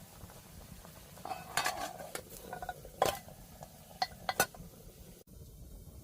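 Metal utensil clinking and scraping against a cooking pot, a run of short ringing clinks with a couple of sharper strikes over a steady low background noise.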